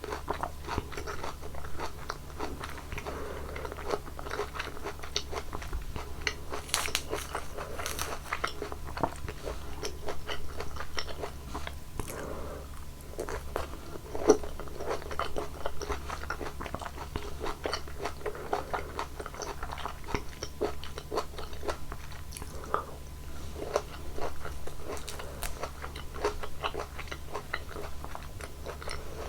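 Close-miked eating of juicy fruit (Red Hyang mandarin and strawberries): continual bites and wet, crunchy chewing, with one sharper bite about fourteen seconds in.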